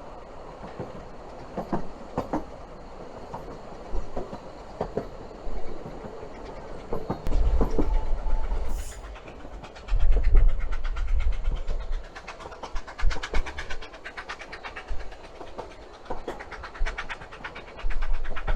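A train running on the rails, with wheels clicking and carriages rattling, and heavy low rumbles about seven and ten seconds in.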